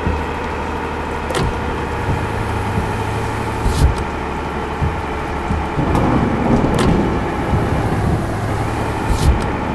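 Truck on the move: the engine runs as a steady low drone under road noise, with a few sharp knocks and rattles.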